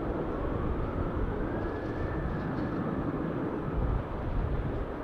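Boeing 747-400 freighter's four jet engines giving a steady rumble as it flies over, with a faint whine that rises a little in pitch in the first couple of seconds.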